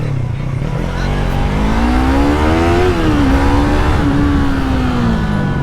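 Yamaha MT-03 parallel-twin engine on its stock exhaust, revving up hard under acceleration, with a sudden drop in pitch about halfway through as it shifts up a gear. It then holds and eases off, the pitch falling near the end, over steady road and wind noise.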